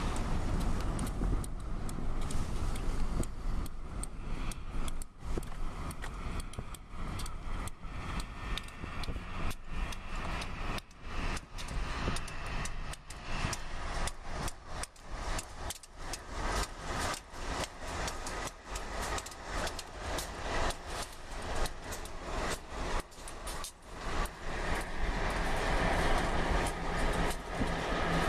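Freight cars rolling past at close range, their wheels clicking rapidly and irregularly over the rail joints above a steady low rumble. Near the end a low, even drone grows louder.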